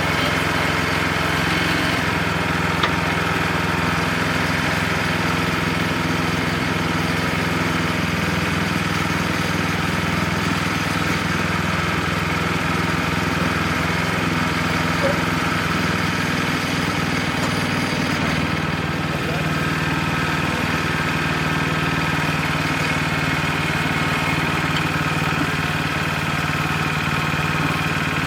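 Wood-Mizer LX25 sawmill's engine running steadily, with a slight change in its sound about two-thirds of the way through.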